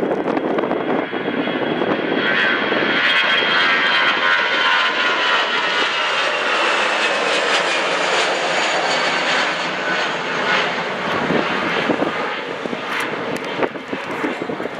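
Jet airliner passing close by, its engines building to a loud steady rush with a high whine that slowly falls in pitch as it goes past, then easing off near the end.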